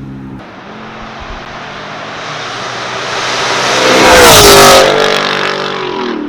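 A car driving past at speed: its engine and tyre noise grow steadily louder, peak about four seconds in, and the engine note drops in pitch as it goes by, then fades.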